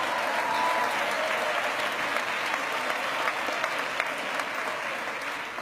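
Church congregation applauding, with a few voices cheering near the start, dying down gradually toward the end.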